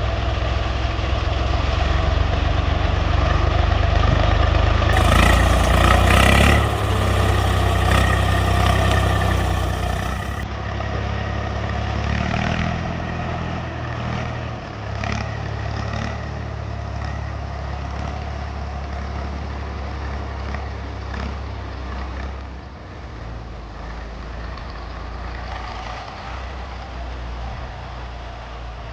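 Tractor engine running, growing louder to a peak about six seconds in, then shifting down in pitch and level and running on more quietly.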